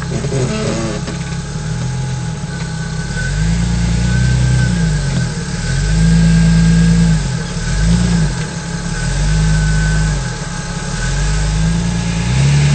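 An off-road 4x4's engine revving in repeated surges, rising and falling about five times, then held up high near the end, as it works over rocks.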